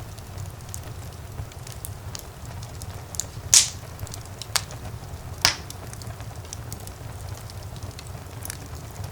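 Wood fire burning in a fireplace: a steady low rumble of flames under constant small crackles, with three louder pops in the middle, the first the loudest.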